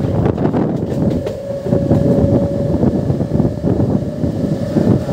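MEMU electric train running at speed, with a steady hum over its running noise, while wind buffets a microphone held out of the carriage window.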